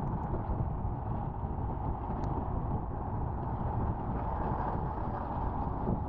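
Steady wind rumble on the microphone and road noise from a Honda Activa scooter in motion, with a few faint ticks.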